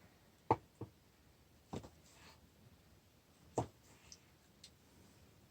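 A knife knocking on a chopping board while cutting up boiled sausages: about five short, sharp knocks, widely and unevenly spaced.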